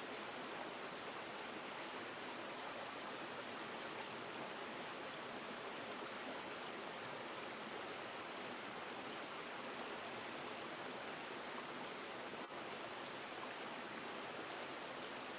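River or stream water rushing steadily, an even, unchanging noise, with a single brief tick about twelve seconds in.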